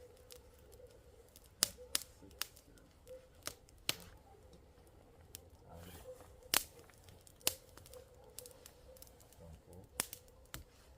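Wood fire crackling, with irregular sharp pops and snaps of burning wood.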